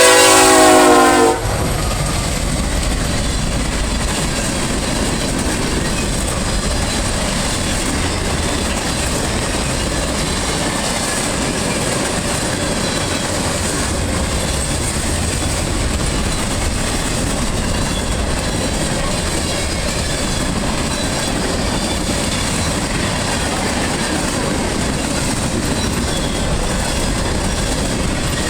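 A Norfolk Southern freight train's locomotive horn sounds and cuts off about a second in. Then comes the steady noise of the freight cars rolling past, wheels clicking over the rail joints.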